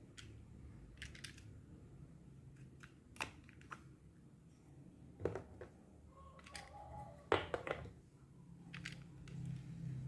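Small plastic miniature kitchen toy pieces being handled and set down: scattered light clicks and taps, the sharpest a little past seven seconds in, with a brief faint scrape just before it.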